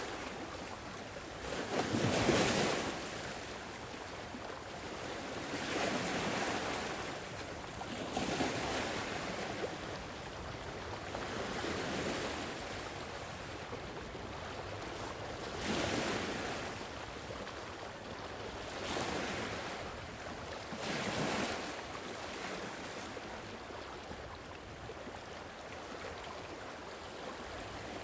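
Sea waves washing onto a shore, a swell of surf rising and falling every three to four seconds.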